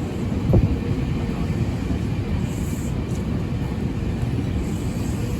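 Tokyu 8500-series electric commuter train running through the station with a steady low rumble, and one brief thump about half a second in.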